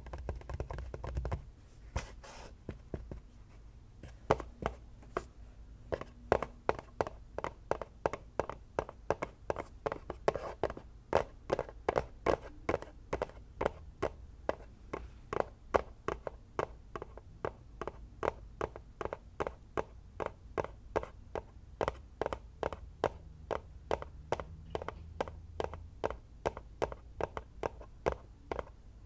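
Fingers tapping on an object in a steady rhythm of about two to three taps a second, with a little handling noise before the tapping settles in.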